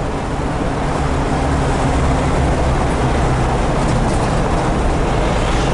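Inside the cab of a 1972 Ford Bronco cruising at about 50–55 mph: its 302 V8 engine runs smoothly and steadily under a constant rush of road noise.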